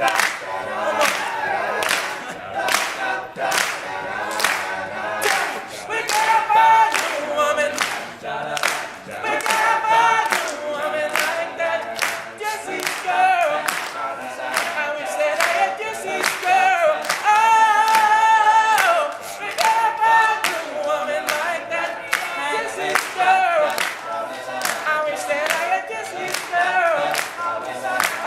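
All-male a cappella group singing in close harmony, several voices at once, over a steady beat of sharp percussive hits about two a second.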